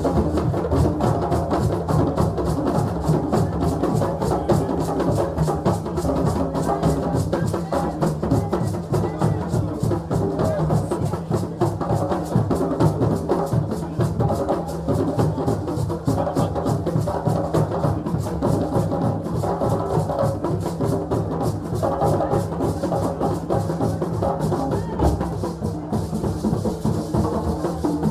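West African drum ensemble playing a fast, dense rhythm without a break.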